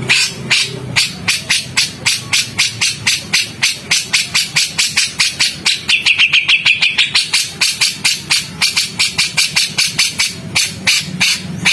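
A songbird giving a fast, harsh train of short chattering notes, about six a second, with a brief whistled note about halfway through: the rough 'tembakan' call used in birdsong training recordings.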